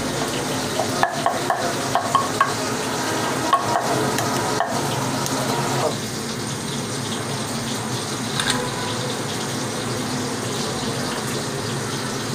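Food frying in a cooking pot with a steady sizzle, and short clicks of a spoon stirring against the pot during the first half. After about six seconds the stirring stops and only the sizzle continues.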